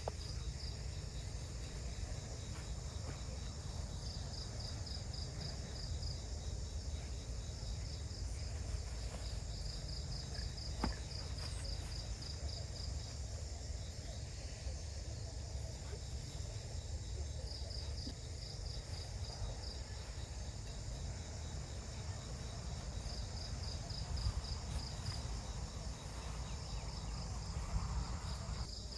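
Forest insects chirping in repeated pulsed trills that come and go in bouts of a few seconds, over a steady high insect hiss, with a low steady rumble underneath.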